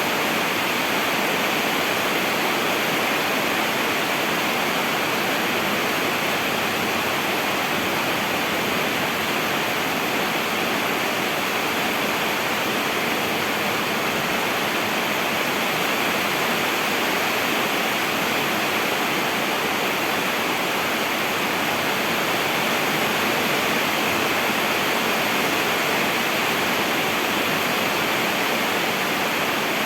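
Steady rain falling, an even unbroken hiss with no separate drops or changes.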